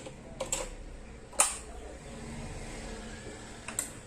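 Sharp clicks and light knocks as the Kenwood A-58 amplifier is handled and switched on, the loudest click about a second and a half in, another near the end. A faint low hum runs underneath.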